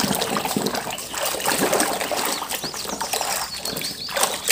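Muddy water sloshing and splashing in a metal basin as a toy bus is scrubbed by hand underwater, in quick irregular splashes.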